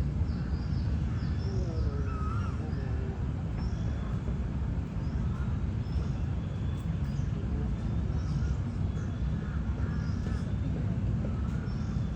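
Birds calling, many short chirps and warbling notes, over a steady low rumble.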